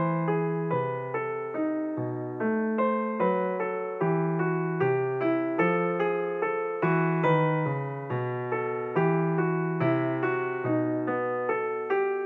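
Background piano music: a steady flow of struck notes, about three a second, over low bass notes that change about once a second.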